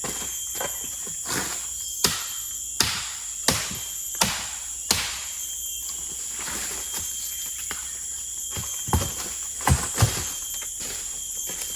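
Steady shrill drone of forest insects, with five sharp knocks in an even rhythm about two-thirds of a second apart in the first half, then two or three heavier thumps near the end.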